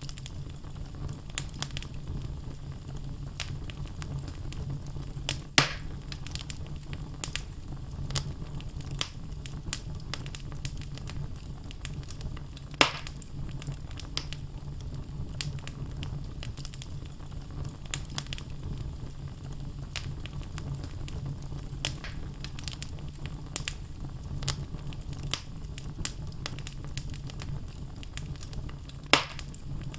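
Wood fire burning in a fireplace: a steady low rush of flame with frequent small crackles from the logs, and three louder pops, about 6, 13 and 29 seconds in.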